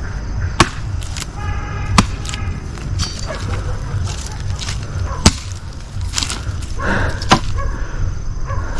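Firewood being split by hand: four sharp chopping blows into wood, a second or more apart and unevenly spaced, with a few lighter knocks between them.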